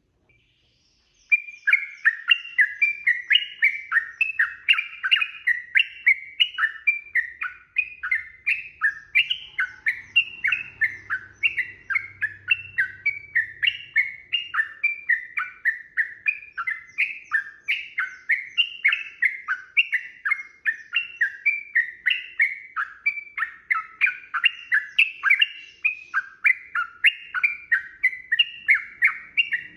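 Yellow-vented bulbul (trucukan) singing a long, unbroken run of chattering notes, about three a second, starting just over a second in.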